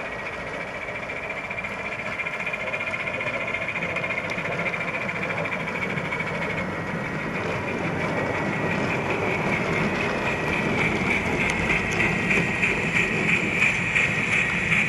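Gauge 1 J94 model steam locomotive running, its onboard sound card playing steam exhaust chuffs over the model's running noise. The sound grows louder, and near the end the chuffs stand out at about two a second.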